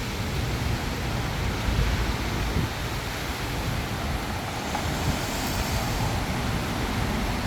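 Strong haboob dust-storm wind blowing steadily, with gusts buffeting the microphone in an uneven low rumble.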